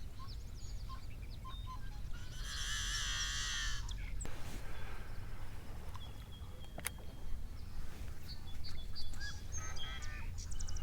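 Birds calling over a low steady outdoor rumble: one loud wavering call lasting almost two seconds, starting about two seconds in, with short chirps scattered around it. A single sharp click comes about seven seconds in.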